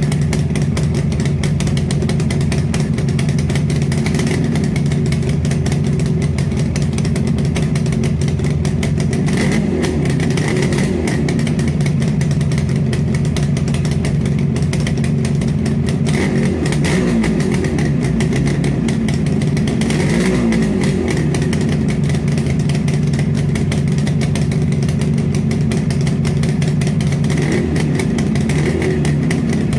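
Motorcycle engine running steadily at idle through its exhaust, with a few brief small wavers in pitch about a third and two thirds of the way in.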